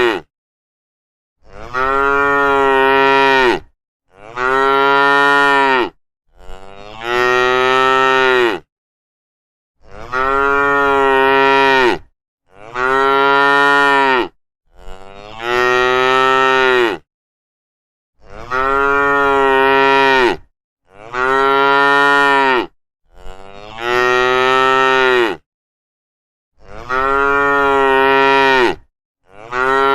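Long, low mooing calls of about two seconds each, repeated twelve times at an even pace with silent gaps between them.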